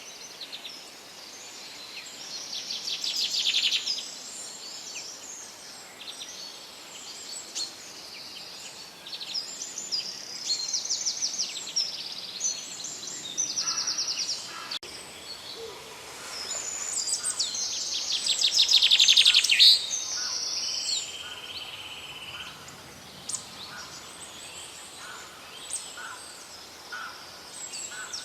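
Several songbirds singing in a forest, with rapid buzzy trills and short chirps overlapping above a steady background hiss; the loudest trills come about three seconds in and again around eighteen to twenty seconds in.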